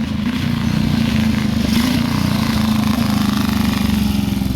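1937 Rudge race motorcycle's single-cylinder four-valve engine running steadily through long straight pipes with no mufflers.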